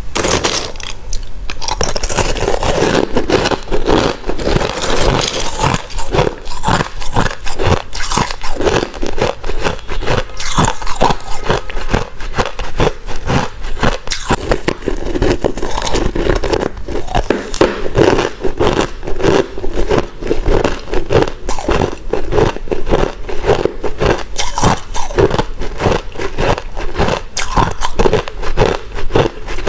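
White, crunchy ice being bitten and chewed close to the microphone: a continuous run of sharp crunches, several a second.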